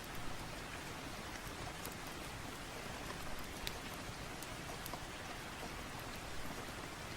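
Steady rain, an even wash of noise, with a few faint sharp ticks scattered through it.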